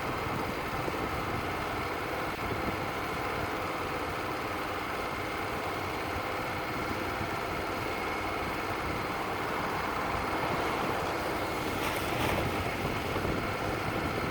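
Wood-Mizer LT35 portable band sawmill running steadily, its engine holding an even note, with a short hiss near the end.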